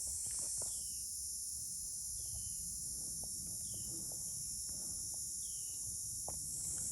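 Steady high buzz of insects with a thin, high held whine, and a bird giving a short falling call four times, about a second and a half apart.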